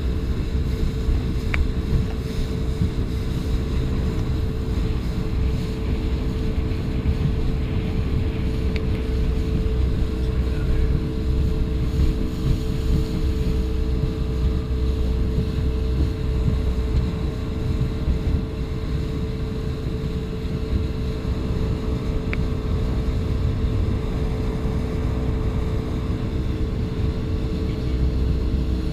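Motorboat engine running at a steady pitch while the boat is underway, with wind buffeting the microphone in a low rumble.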